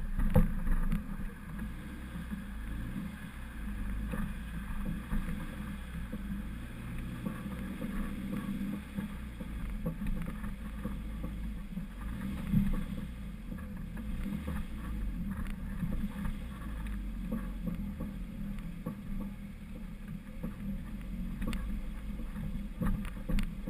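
Lifted 1999 Honda CR-V driving over rough ground: a steady low rumble with scattered knocks and rattles, and a louder bump about halfway through.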